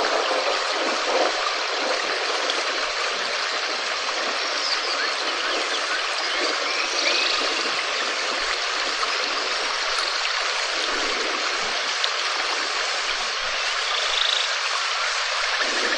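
Steady, even rain, with a few faint chirping calls above it.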